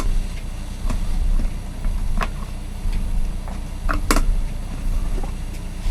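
Handling clicks and knocks from an electric kettle's plastic body and handle being screwed back together, a few sharp clicks spaced a second or so apart, over a steady low hum.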